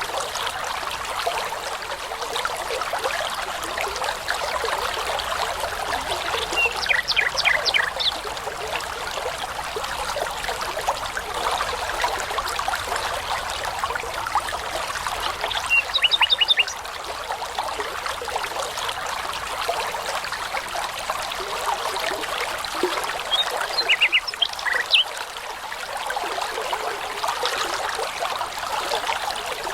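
A babbling brook running steadily, with a songbird singing three short phrases of quick, high repeated notes, about eight seconds apart.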